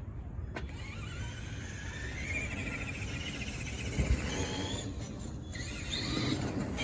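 Traxxas Summit RC truck's electric motor and gearbox whining, rising in pitch as the truck speeds up, with a knock about four seconds in and a second shorter whine near the end.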